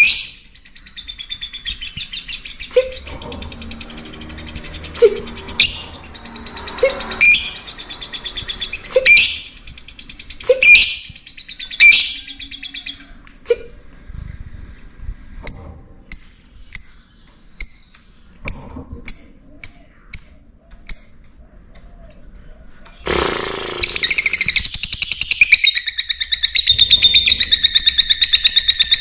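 Lovebirds chirping and calling: loud, sharp, high calls with pauses between them, then a run of evenly spaced chirps about twice a second, and near the end continuous rapid chattering.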